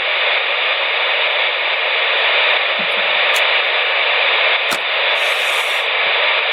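Steady static hiss from a two-way radio receiver with no one transmitting, and a faint click or two.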